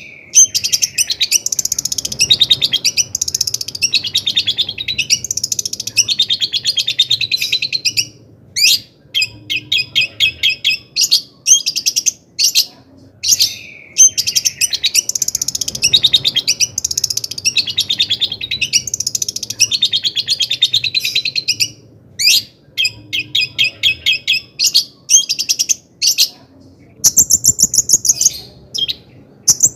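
Long-tailed shrike singing: a fast, varied, scratchy chattering song broken by runs of rapid repeated notes. The same sequence of phrases comes round again about halfway through.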